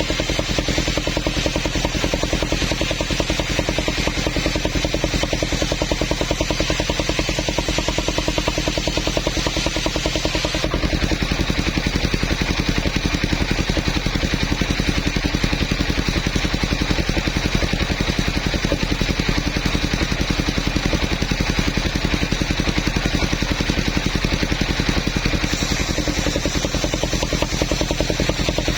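Engine of a portable sawmill running steadily with a fast, even beat. The sound shifts abruptly about eleven seconds in and again near the end.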